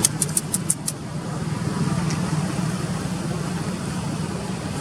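A steady low engine hum from a motor vehicle, with a quick run of about six sharp clicks in the first second.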